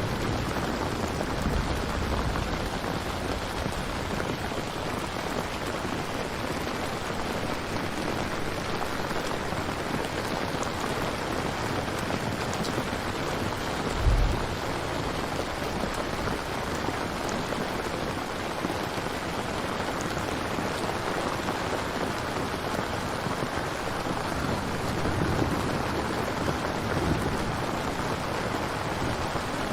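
Steady rain falling in a thunderstorm, an even hiss with no break. A few soft low rumbles of distant thunder come near the start and again near the end, and a short low thump sounds about halfway through.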